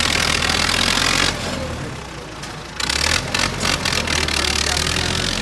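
A vehicle engine running steadily at idle, with two stretches of loud rushing noise over it, the second starting about three seconds in.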